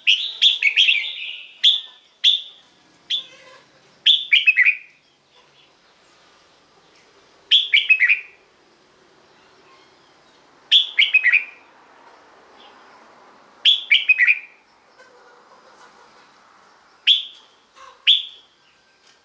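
Red-whiskered bulbul singing: short bright phrases of quick, falling notes, repeated every one to three seconds.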